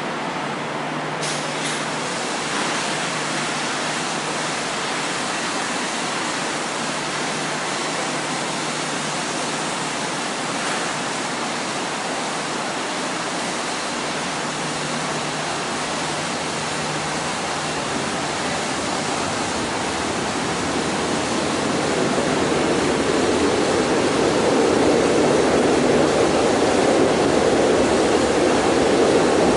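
Kintetsu electric train standing at a station platform: a steady rushing hum of its running equipment, with a rumble that swells louder from about two-thirds of the way in.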